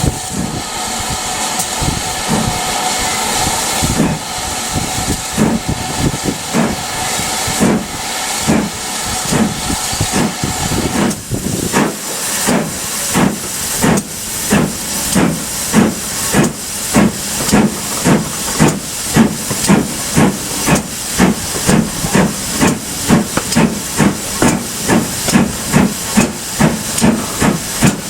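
GWR Manor-class 4-6-0 steam locomotive starting away. For about the first eleven seconds there is loud steam hiss with a steady high tone. After that come sharp, regular exhaust beats that quicken as the engine gathers speed.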